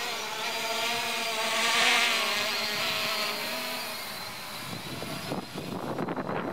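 3DR Iris+ quadcopter's electric motors and propellers whining in flight, several steady pitches that waver slightly as it holds position. About five seconds in, gusty wind buffeting the microphone takes over.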